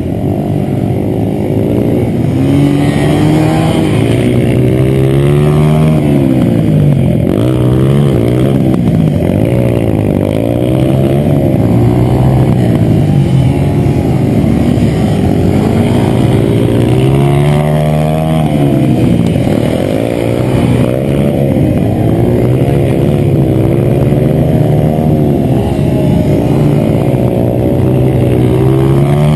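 Dirt bike engine running loud as it is ridden, its pitch climbing and dropping over and over as the throttle is opened and closed.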